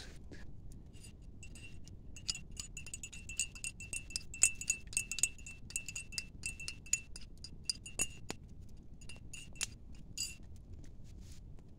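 Light, irregular clinking strikes, several a second, each leaving a high ringing tone that hangs on between strikes. The strikes fade out near the end.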